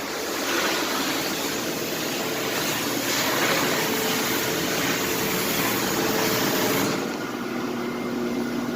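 Pressure washer running with its wand spraying in a steady hiss. About seven seconds in the spray stops, leaving the machine's engine running on its own.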